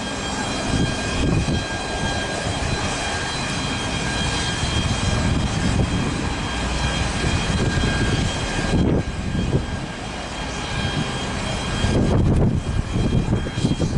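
Airliner engines running: a broad roar with a steady high whine on top. The whine drops away about nine seconds in, and the roar grows louder near the end.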